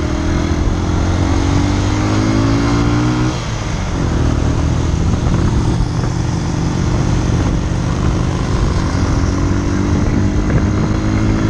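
Motorcycle engine accelerating, its pitch rising. It drops at a gear change about three seconds in, then climbs steadily again through the next gear, over a steady rushing noise.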